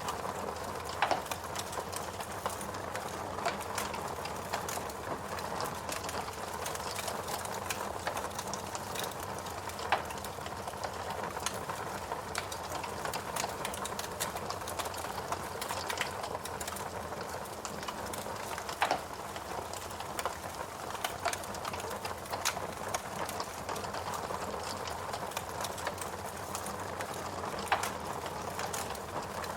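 Log fire burning in a fireplace: a steady hiss with frequent small crackles and a few louder pops scattered through.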